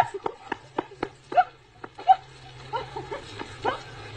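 An animal giving a string of short, high-pitched calls, each rising at the start, about one every half second, with sharp clicks between them.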